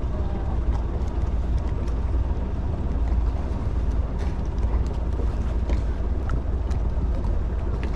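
Wind buffeting the microphone aboard a sailing yacht: a steady low rumble, with a few faint small clicks scattered through it.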